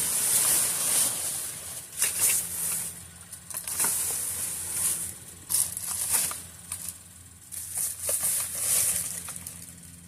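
Rustling, scraping and knocking of trash bags and cardboard boxes being rummaged through in a dumpster, in irregular bursts over a steady low hum.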